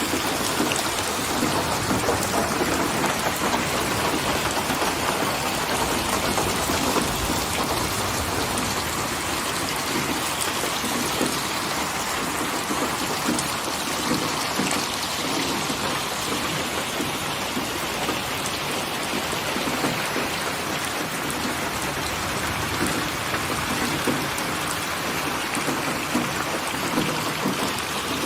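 Steady rain falling, an even dense patter with no breaks.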